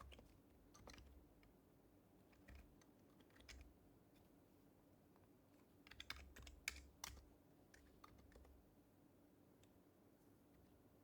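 Faint keystrokes on an HHKB Professional HYBRID Type-S keyboard with silenced Topre switches: scattered single taps, then a quick flurry of typing about six seconds in.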